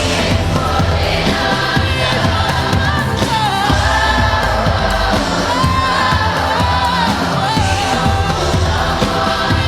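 Upbeat pop song sung by a large choir, with wavering, wordless vocal lines over a steady bass backing.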